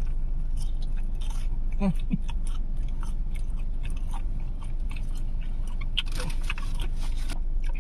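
Close-up chewing of a fried meatball with a crunchy crust: scattered wet mouth clicks and crunches, thickest about six seconds in, with a short hummed 'mm' about two seconds in.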